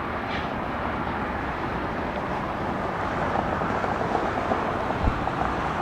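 Jet noise of a departing Airbus A220-100's geared turbofan engines as it climbs away: a steady rumbling roar with some crackle in its second half.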